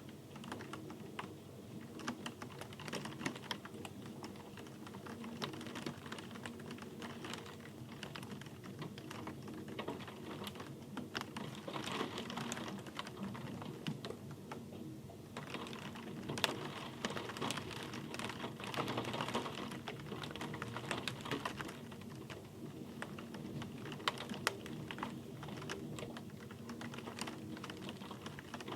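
Rain falling, with many close drops tapping irregularly and quickly on a hard surface over a steady hiss of rainfall.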